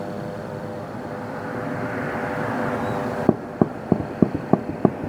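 Steady aircraft engine noise, swelling slightly, cuts off abruptly a little over three seconds in. A run of sharp ticks follows, about three a second.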